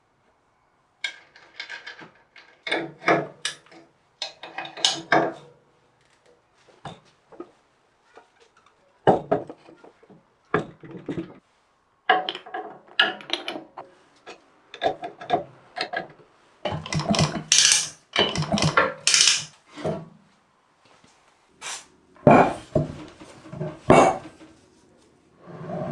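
Hand-tool workshop noises: irregular bouts of scraping and rubbing with clicks and knocks, separated by short pauses, busiest in the second half.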